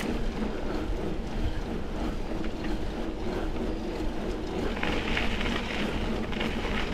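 Mountain bike riding on a dirt double-track trail: steady wind noise on the microphone and tyres rolling, with a brighter hiss coming in about five seconds in.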